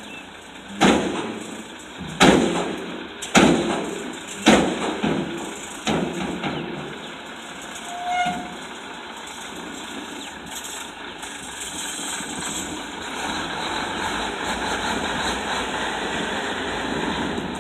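Five loud bangs from a Mack RD dump truck as it dumps its load, roughly one every second and a quarter, each dying away quickly. After a short tone about eight seconds in, a steady rumbling noise builds through the second half.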